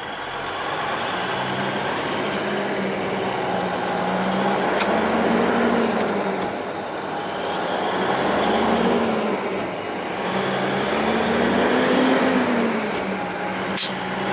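Semi truck's diesel engine heard from inside the cab, pulling and being shifted through the gears, its pitch climbing and dropping back several times; the transmission shifts smoothly without the clutch. A sharp click near the end.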